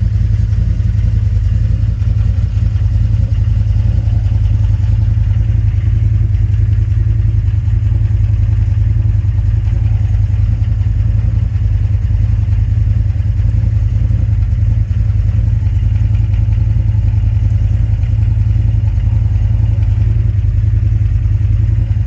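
CF Moto Z-Force 800EX side-by-side's engine, fitted with a custom Flowmaster exhaust, idling steadily with no revving.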